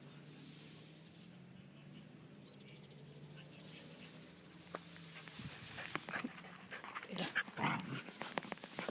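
Shetland sheepdog making short excited vocal sounds in quick bursts over the last three seconds or so, over a faint steady low hum.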